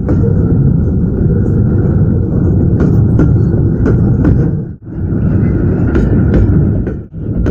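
GE GEU-40 diesel-electric locomotive hauling a container freight train: a loud, steady low rumble of engine and train. It drops out sharply for a moment twice, about five and seven seconds in.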